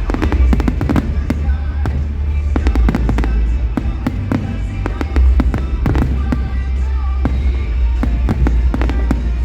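Fireworks going off in rapid succession, many sharp cracks and bangs, over loud show music played through speakers, with a heavy low rumble underneath.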